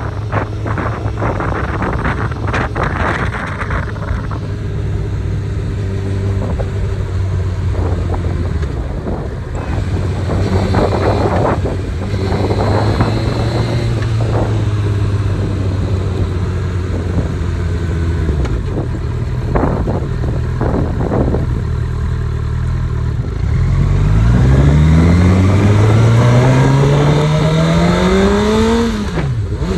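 Honda CB1000R inline-four motorcycle engine running at steady revs, with wind rushing over the microphone. About three-quarters in it revs up with a steadily rising pitch as the bike accelerates, and the pitch drops sharply at a gearshift near the end.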